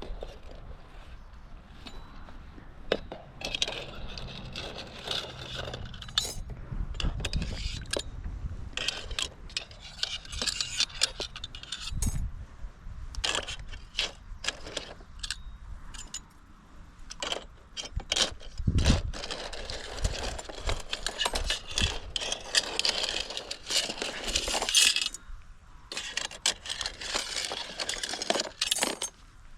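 Small metal parts and tools clinking, rattling and scraping as they are handled, with irregular sharp clicks and a few heavier knocks.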